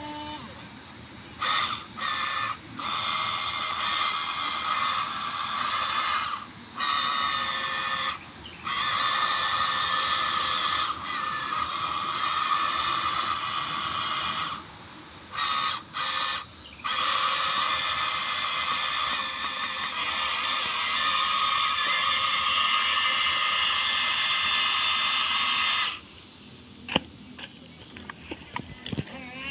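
Huina 1593 RC excavator's electric motors and gearboxes whining steadily over a high hiss. The whine cuts out briefly several times as the controls are let go, then starts again.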